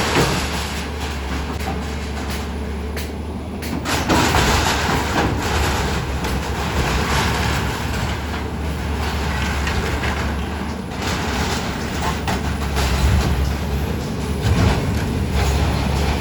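Heavy engine machinery running with a steady low rumble, with irregular clattering and knocks over it.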